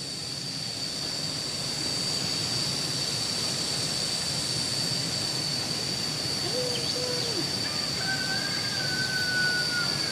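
Steady outdoor background hiss with a continuous high-pitched whine. A short call comes about two-thirds of the way in, and a higher, slightly falling call is held for about two seconds near the end.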